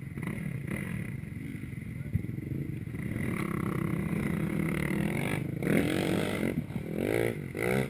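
Motorcycle engine running steadily, growing louder after about three seconds, with loud pitch-bending sounds in the last couple of seconds.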